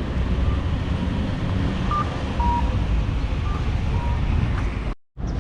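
Street noise with a steady low rumble, and a faint electronic beeper sounding a higher then a lower note, a pair about every second and a half. Near the end the sound cuts out abruptly.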